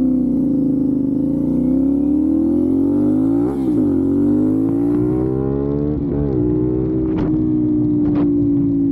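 CFmoto 450SS motorcycle's parallel-twin engine accelerating, its pitch climbing through the gears with two quick upshifts, about three and a half and six seconds in, then holding steady at cruising speed.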